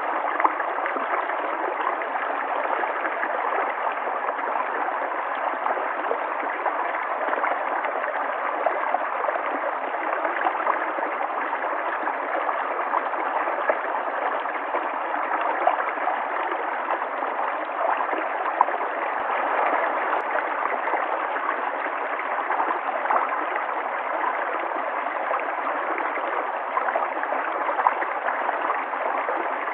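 River water flowing steadily, a continuous rushing with small splashes and gurgles through it.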